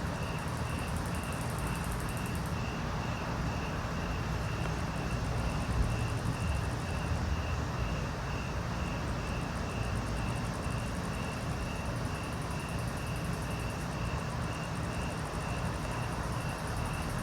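Outdoor ambience: a steady low rumble, with a high chirp repeating evenly about three times a second and a faint, very high buzz that comes and goes.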